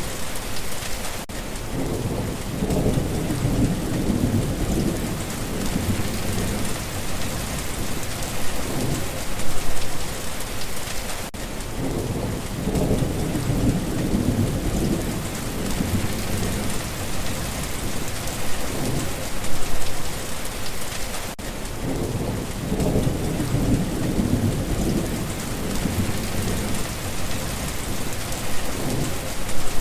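Steady rain falling, with low rolls of thunder rumbling about every ten seconds.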